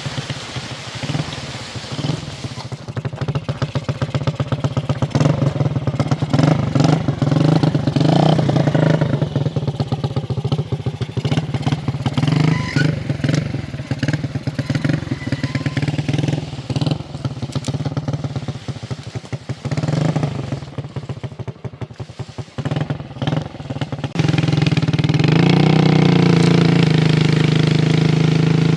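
Motorcycle engine running with a choppy, uneven note and clattering. About 24 seconds in it settles into a louder, steady drone.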